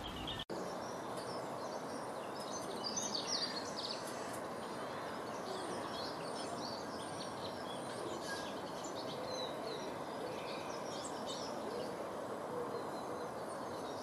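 Small garden birds chirping and twittering, with many short calls overlapping, over a steady outdoor background hiss. There is a brief gap in the sound just after the start.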